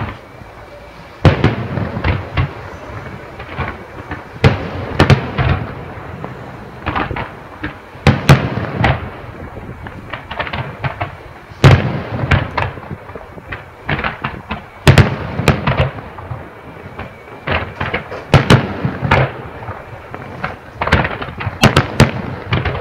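Fireworks display: shells bursting in an irregular series of sharp bangs, often several in quick succession, with a low rumble between the bursts.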